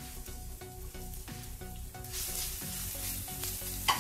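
Chopped garlic and ginger sizzling in hot oil in a non-stick wok, the sizzle growing louder about halfway through as a spatula stirs them. A single sharp knock of the spatula against the pan near the end.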